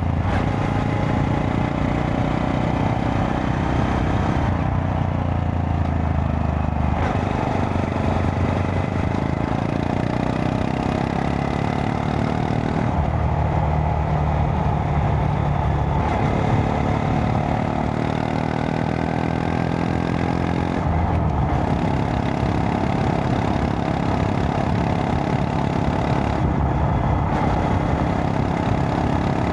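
Honda Monkey 125's single-cylinder four-stroke engine running under way, its pitch rising and falling, with the throttle eased off several times along the way.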